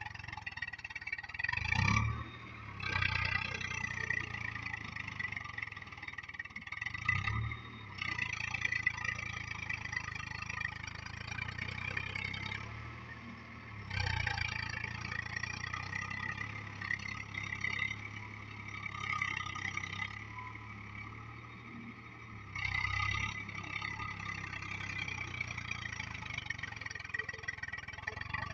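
Swaraj tractor's diesel engine running under load while puddling heavy mud, its note swelling louder several times over a steady hum.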